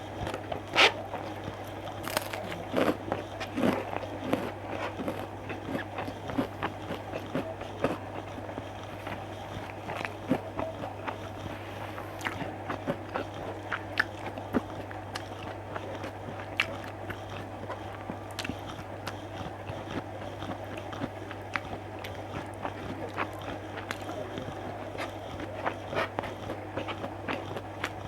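Close-miked eating sounds: a person biting, chewing and crunching mouthfuls of food, with many short sharp mouth clicks, over a steady low hum.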